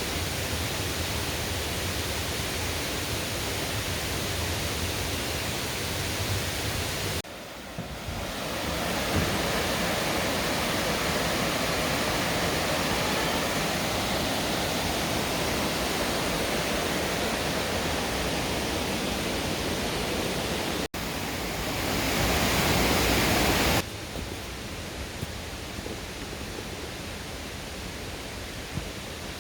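Mountain valley stream rushing, a steady wash of water noise. It drops and returns abruptly about seven seconds in, and again around twenty-one seconds, and turns quieter from about twenty-four seconds on.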